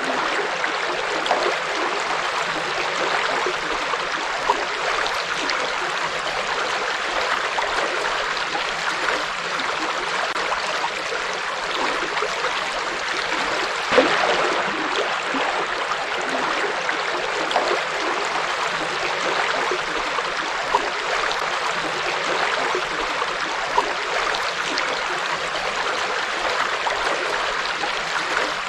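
Forest river flowing: a steady, even rush of water with small splashes and gurgles scattered through it, one a little louder about halfway.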